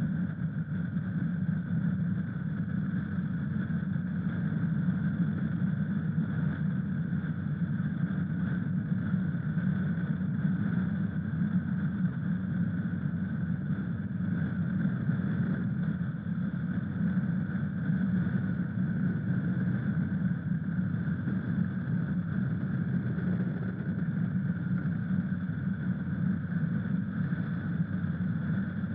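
Honda CRF1000 Africa Twin's parallel-twin engine running steadily, a constant drone with no rise or fall in pitch.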